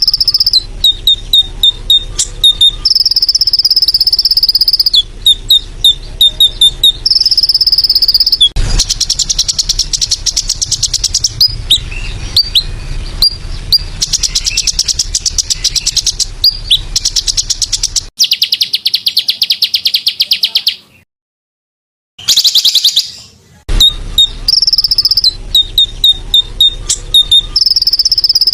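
Looped bird-training (masteran) recording of small songbirds' sharp, rapid high chirps and short held whistles. In the middle stretch these alternate with a fast, continuous cricket-like insect trill. The sound breaks off briefly in silence about three-quarters of the way through, then the chirping resumes.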